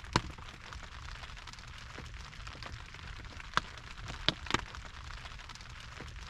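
Rain falling on a camper's tarp roof: a steady hiss with scattered single raindrops crashing sharply onto the tarp, a few louder hits past the middle.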